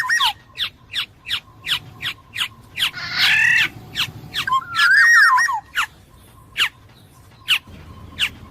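Black-naped oriole (kepodang emas) calling: a string of short sharp notes, a harsh nasal squawk about 3 s in, and a clear warbling whistled phrase about 5 s in.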